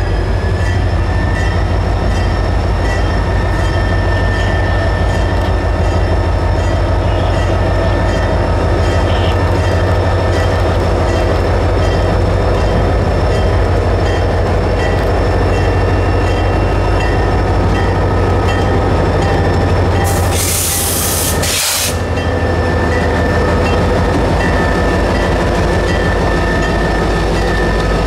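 Six-axle diesel freight locomotive rumbling slowly past at close range, hauling passenger cars around a tight curve, with a steady high wheel squeal throughout. A short burst of hiss comes about two-thirds of the way through.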